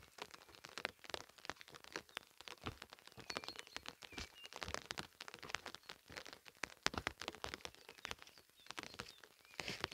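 Wood fire in an open hearth crackling and popping with quick irregular snaps, the firewood still somewhat wet.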